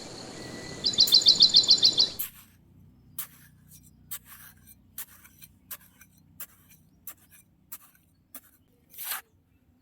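A bird's rapid trill of repeated high chirps over outdoor background noise, cutting off about two seconds in. Then a quiet run of small, irregular clicks and taps, with one slightly longer scrape near the end.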